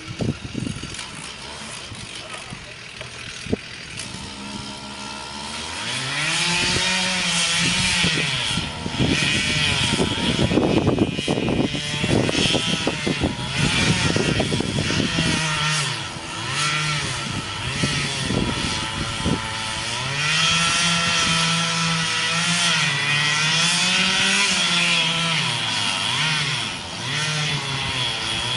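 Chainsaw engine running and cutting, its pitch climbing and dropping again and again as it revs and bogs under load. It comes in about five seconds in.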